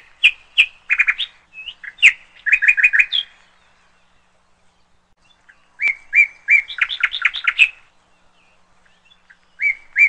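A songbird singing phrases of quick, high chirping notes: one phrase of about three seconds, a pause, a second phrase of about two seconds, and a third beginning near the end.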